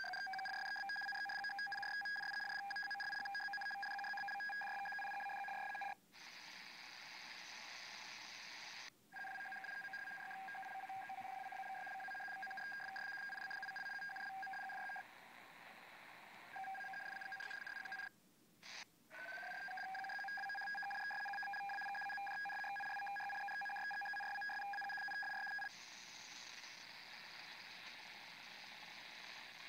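Unidentified data transmission on shortwave at 7598 kHz, received in lower sideband. Long steady beeps on two pitches alternate with stretches of rushing, hiss-like data noise, broken by brief dropouts. Twice, near the start and about two-thirds through, the tone slides up in pitch before holding steady.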